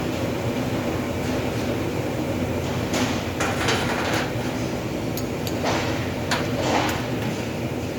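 Steady workshop machine hum with a few short metallic clatters and sharp clicks, mostly in the second half.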